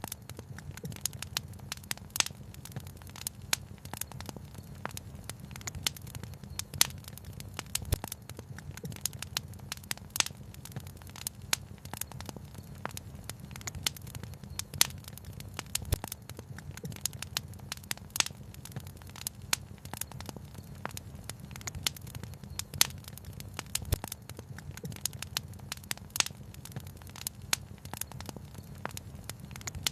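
Wood fire crackling, with many sharp, irregular pops and snaps, some louder than the rest, over a steady low rumble.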